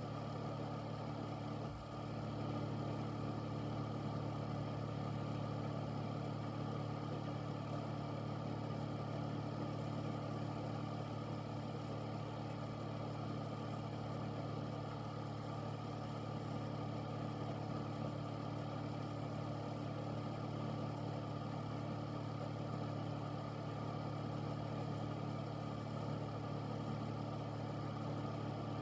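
An air filter's fan running steadily: an even hum with a whoosh of moving air, dipping once briefly about two seconds in.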